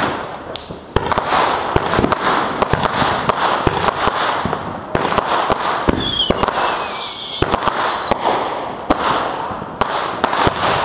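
Consumer fireworks going off: a rapid string of sharp cracks and bangs over crackling, with several falling whistles sounding together about six seconds in.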